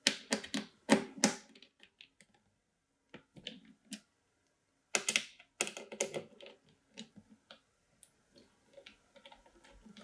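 Sharp clicks and clatter of small hard PC parts being handled and fitted, in three clusters with pauses between, then lighter scattered clicks near the end.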